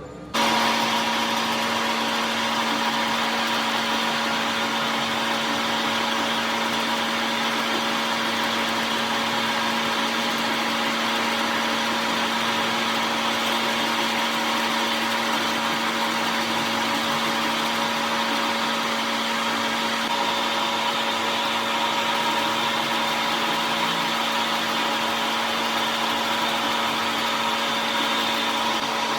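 A machine motor running steadily under load, a constant hum with a few fixed tones over an even hiss, starting suddenly about half a second in.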